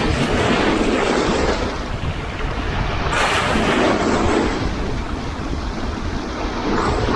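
Sea waves breaking on the shore: one surge of surf washing in and fading over the first couple of seconds, another breaking with a sudden onset about three seconds in, and a third building near the end. A steady low rumble of wind on the microphone runs underneath.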